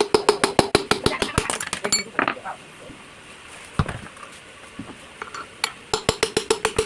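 Rapid hammer taps on a metal part, about six a second, with a ringing metallic tone. One run of taps fills the first two seconds, there are a few single knocks in the middle, and a second run starts near the end.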